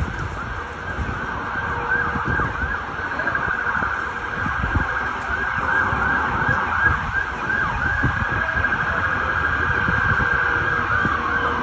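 Emergency vehicle sirens sounding in a fast, warbling yelp, with one siren winding down in pitch near the end, over a low street rumble.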